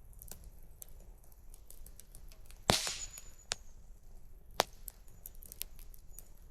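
Wood campfire crackling with many small irregular snaps, and one loud pop about three seconds in, followed by two smaller pops.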